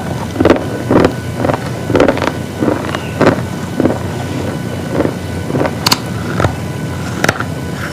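Close-up crunching of hard, brittle pieces being bitten and chewed, one loud crunch after another about every half second.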